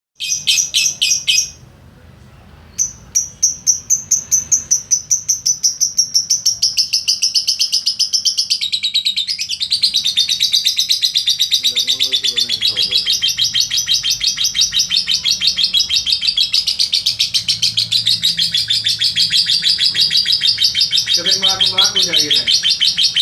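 Lovebird singing a long, very rapid chattering trill of high chirps. A short burst opens it, then a pause of about a second, then the trill runs on unbroken for around twenty seconds.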